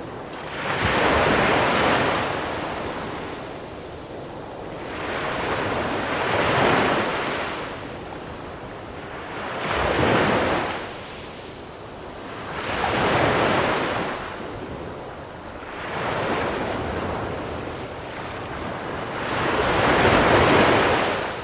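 Sea waves breaking on a small-pebble beach and washing back, six swells about three to four seconds apart, the last near the end the loudest. Light wind on the microphone underneath.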